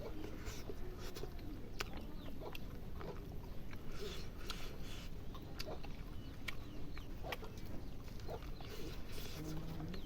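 Close-up eating sounds: irregular wet clicks and short smacking bursts of chewing, scattered through the whole stretch.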